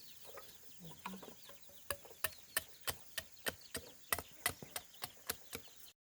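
A steady run of sharp knocks, about three a second, starting about two seconds in, with a few chicken clucks in the first second.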